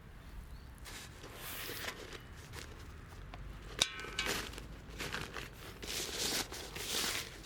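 Rustling and crinkling from things being handled, with one sharp clink that rings briefly about four seconds in.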